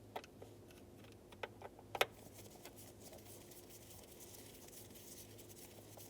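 A few light clicks and taps of a T20 Torx driver working the screws out of the plastic steering column cowl, bunched in the first two seconds, the sharpest about two seconds in, over a low steady hum.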